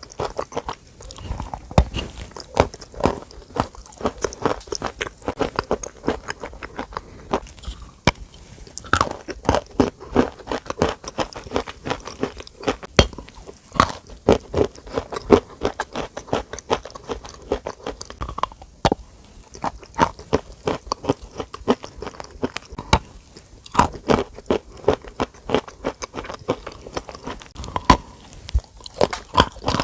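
Close-miked crunching: dense, quick, crisp crackles and snaps.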